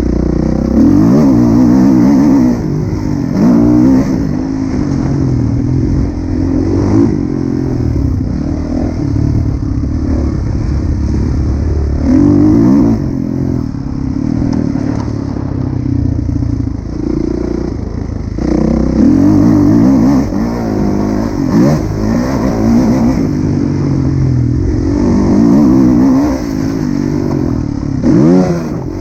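Kawasaki KX450F motocross bike's four-stroke single-cylinder engine being ridden hard, revving up and dropping back over and over as the throttle is opened and closed, with several louder bursts of full throttle.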